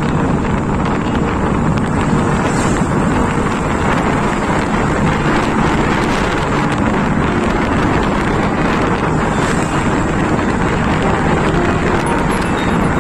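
Steady, heavy wind rushing over the microphone of a moving motorcycle, with road and engine noise underneath.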